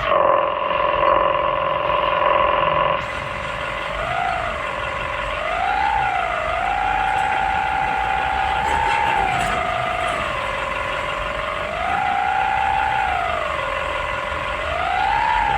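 Excavator working, its engine and hydraulic whine holding one steady pitch for about three seconds, then rising and falling again and again as the machine takes and releases load while digging.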